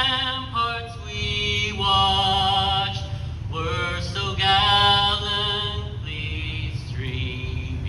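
Singing: long held sung notes, each lasting a second or two before moving to a new pitch, over a steady low rumble.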